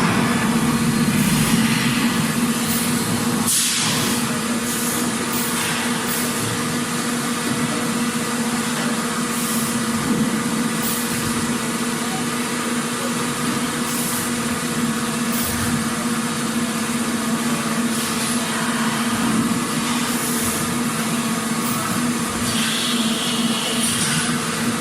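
Factory machinery running with a steady hum and drone, with a few brief hisses now and then.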